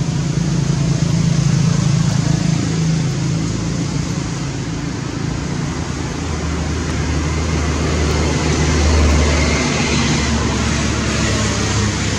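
A motor vehicle's engine running over a steady rushing noise; about six seconds in the hum drops lower and grows stronger for a few seconds.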